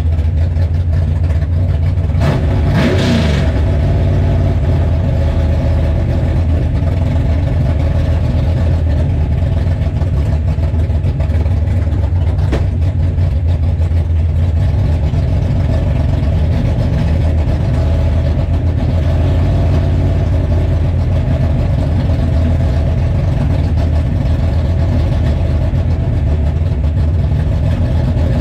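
Chevrolet 409 V8 of a 1933 Willys gasser idling loudly, heard from inside the car's cabin, with one quick rev about three seconds in.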